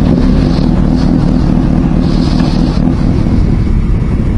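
Motorcycle riding along: steady engine and road noise with wind rushing over the microphone.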